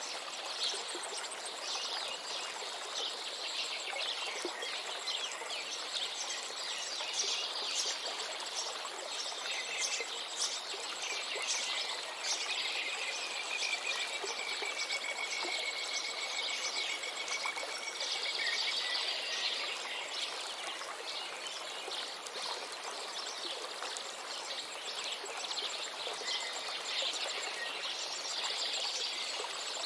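Many small birds chirping and singing over the steady rush of a river. About twelve seconds in, one bird gives a long, even trill lasting some six seconds.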